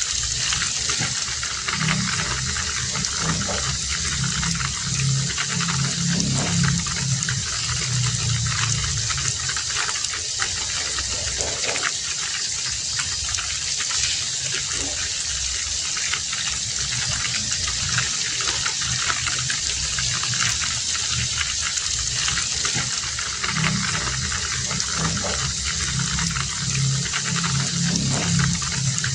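Heavy rain falling steadily, a dense even hiss. A deeper rumbling layer swells under it for the first several seconds and again near the end.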